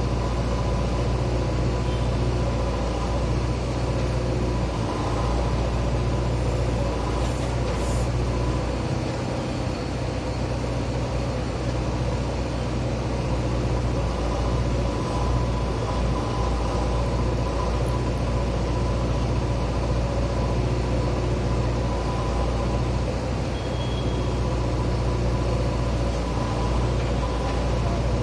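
A JCB earthmover's diesel engine running steadily under digging work, a constant low drone.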